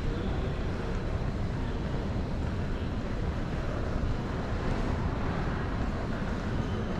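Steady low rumble of background noise, with no separate events standing out.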